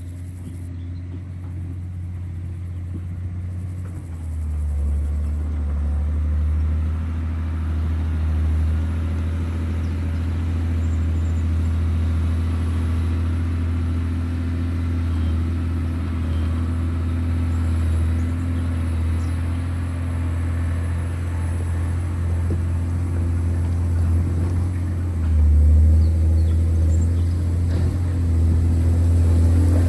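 John Deere 670GP motor grader's diesel engine running steadily under load, a deep low hum. It gets a little louder about four seconds in and again briefly near the end.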